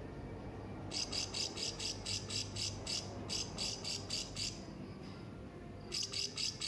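Hanging parrot (serindit) calling: a rapid run of short, high-pitched notes, about four a second, lasting three to four seconds, then a second run starting near the end.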